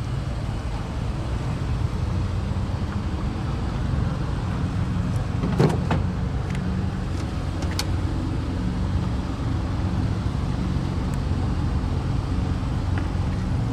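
Citroën C-Crosser's engine idling steadily, with a few sharp clicks about halfway through.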